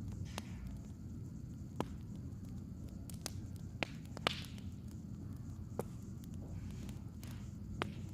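Firewood crackling: a steady low rumble with about seven sharp pops scattered through it, the loudest a little past four seconds in.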